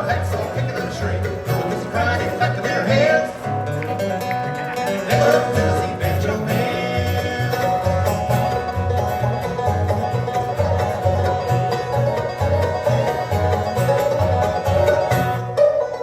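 Bluegrass band playing live: a picked banjo lead over strummed guitar and a steady, rhythmic bass line.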